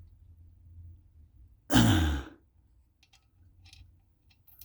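A man's sigh, falling in pitch, about two seconds in; a few faint small clicks follow.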